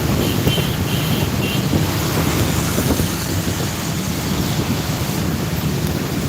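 Steady wind rush over the microphone and road noise from riding on a wet road, with three short high beeps in the first two seconds.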